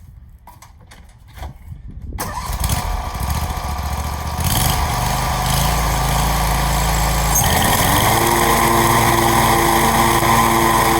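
New Briggs & Stratton engine on a Scag riding mower starting about two seconds in and running steadily. About eight seconds in, the pitch rises and a second steady hum joins, as the mower is put to work testing the blades.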